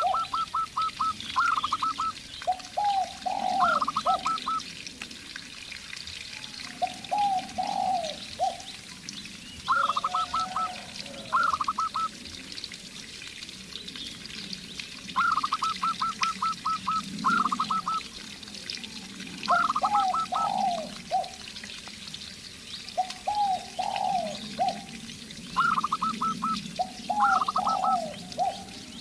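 A zebra dove and a spotted dove cooing in turn. One call is a higher, rapid run of short coos; the other is a lower group of three or four falling coos. The two repeat throughout.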